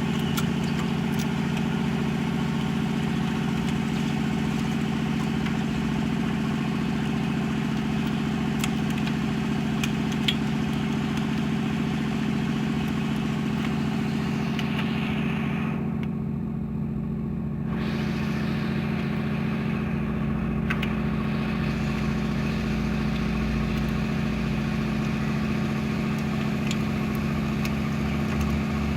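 Mitsubishi Strada L200 engine idling steadily, with the sound briefly muffled a little past halfway.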